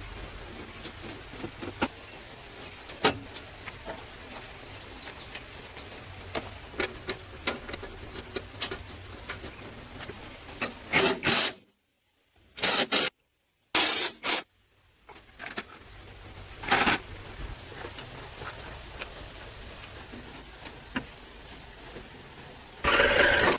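Hand-tool work on metal: scattered clicks, taps and rubbing over a faint steady background, with a few louder scraping bursts around the middle broken by short dead silences, and a louder burst near the end.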